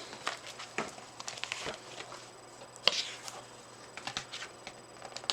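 Light handling sounds in a small room: scattered faint taps and rustles, with one louder click about three seconds in.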